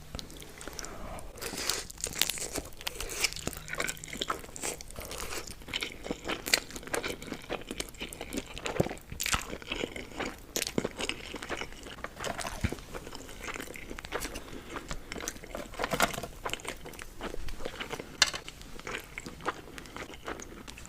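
Close-miked sounds of a person eating spicy noodles: chewing and biting, with many irregular sharp wet clicks and smacks.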